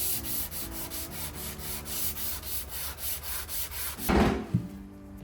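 Wood being sanded in quick, rhythmic strokes, about five a second. About four seconds in there is a louder bump.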